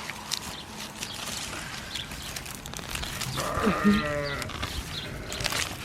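A single quavering bleat from a farm animal about three and a half seconds in, over faint rustling and small clicks.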